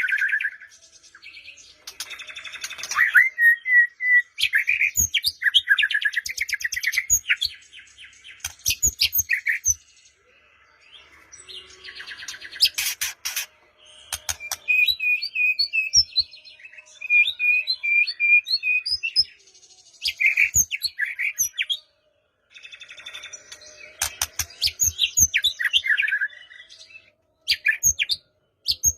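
White-rumped shama singing a long, varied song: clear whistled notes and slurred glides, fast runs of repeated notes, and harsh rattling clicks, in phrases separated by a few short pauses.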